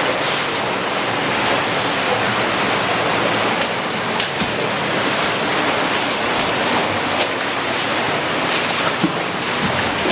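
Underground cave stream rushing steadily over rock, with a few faint brief knocks over it.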